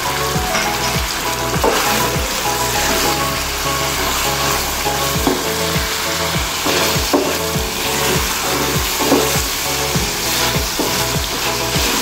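Chicken pieces frying in oil in a pan, sizzling steadily, while a wooden spatula stirs them with repeated scrapes and knocks against the pan.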